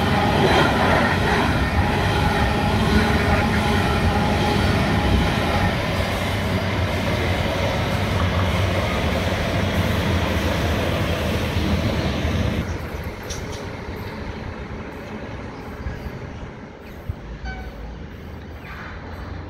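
Empty coal hopper wagons of a freight train rolling past close by, giving a loud, steady wheel-on-rail noise, with a diesel passenger railcar passing on the adjacent track. About two thirds of the way through, the sound drops sharply to a quieter, more distant train.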